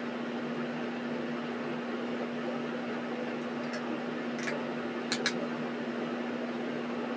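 Steady mechanical hum with one constant low tone, and a few faint short clicks between about three and five and a half seconds in.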